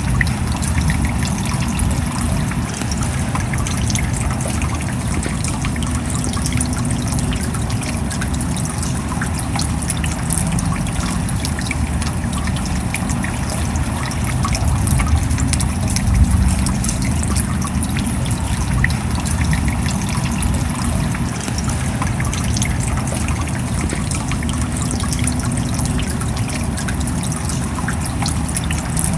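Steady rain: a dense spread of small drop ticks over a continuous low rushing noise, with no breaks.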